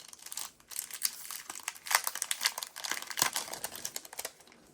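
Packaging crinkling and rustling as craft supplies are handled, a dense run of small crackles and clicks.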